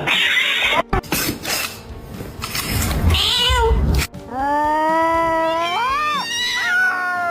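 Domestic cat meowing. In the second half one long, drawn-out meow rises in pitch and then falls away, after a few seconds of noisier sound that includes a short cry.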